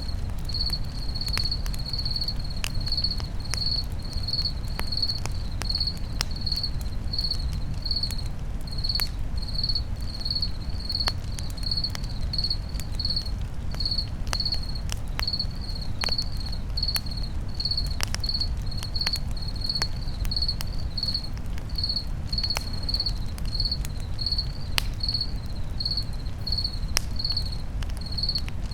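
Crickets chirping steadily, about two chirps a second, over a campfire crackling with scattered sharp pops and a low steady rumble of the flames.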